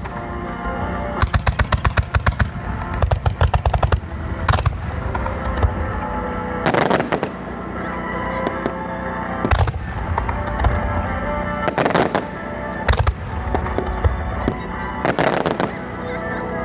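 Aerial fireworks going off: two quick runs of rapid crackling reports near the start, then single sharp bangs spaced a few seconds apart. Music plays steadily underneath.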